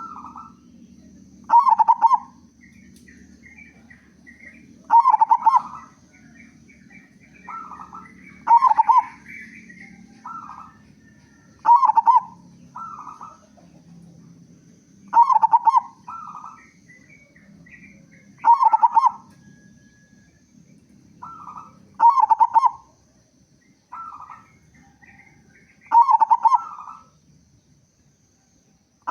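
Zebra dove (local perkutut) cooing its song, a phrase of coos repeated about every three to three and a half seconds. Faint chirping of small birds sounds between the phrases.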